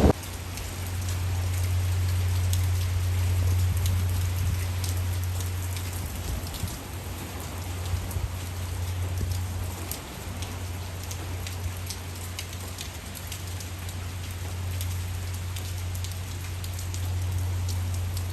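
Typhoon rain pattering on a hard surface, with a dense scatter of sharp drop ticks. A steady low hum runs underneath and dips briefly about ten seconds in.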